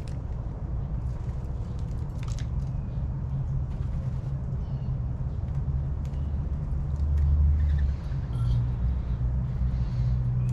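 Low steady rumble, swelling about seven seconds in and again near the end, with a few faint backyard bird chirps and clicks above it.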